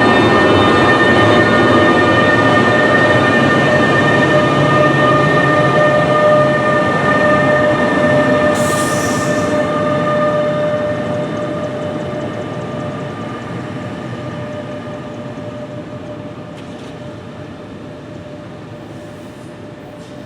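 NJ Transit train running past with a steady mechanical whine over the rumble of its wheels, fading as it pulls away. A short burst of air hiss comes about nine seconds in.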